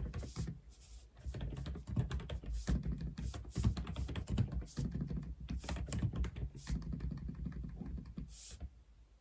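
Typing on an AULA F87 mechanical keyboard: a fast, continuous run of key clicks and clacks that stops shortly before the end.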